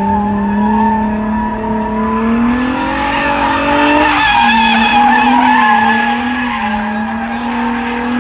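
Drift car's engine revving, its pitch climbing and then dropping and wavering as the throttle is worked, with the tires squealing through a slide. The squeal is strongest in the middle of the stretch.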